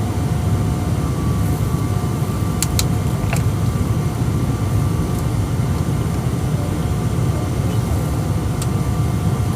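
Cabin noise inside a Boeing 777-200 on the ground before takeoff: a steady low rumble with a faint, steady whine, and a few light clicks about three seconds in and again near the end.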